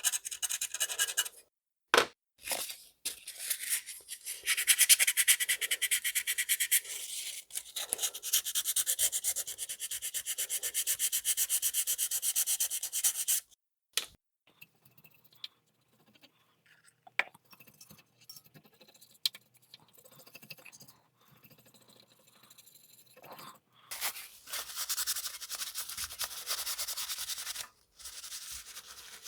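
Fine sandpaper rubbed rapidly back and forth on a circuit board, scrubbing NiCad battery corrosion off the solder pads. It runs in a long stretch of quick strokes for the first dozen or so seconds and again briefly near the end, with quiet handling noises between.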